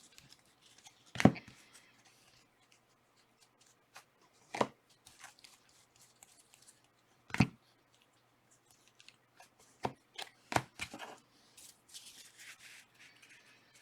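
Trading cards being handled on a tabletop: a few sharp taps and clicks, about three seconds apart at first and then closer together, with a soft sliding rustle near the end.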